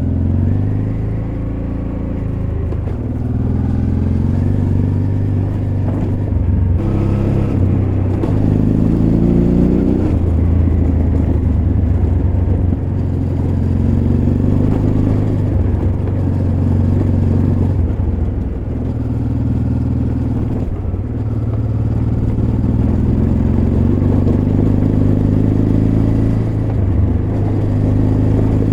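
Honda Transalp XL600V's V-twin engine running while being ridden, its pitch rising and falling repeatedly with throttle and gear changes.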